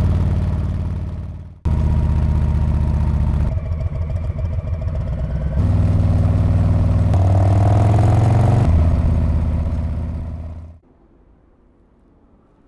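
Harley-Davidson Street Bob's V-twin exhaust, heard in several short stretches that switch abruptly from one to the next, one rising in pitch as the engine revs up about seven seconds in. It fades out after about ten and a half seconds, leaving only a faint background.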